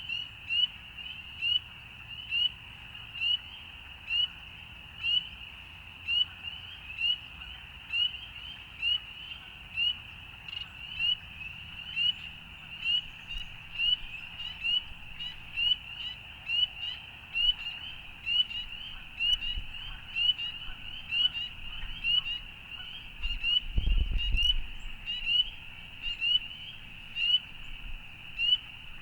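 Frogs calling: one loud, high peep that slurs upward, repeated about twice a second without a break, over a fainter chorus of more calls. A brief low rumble comes near the end.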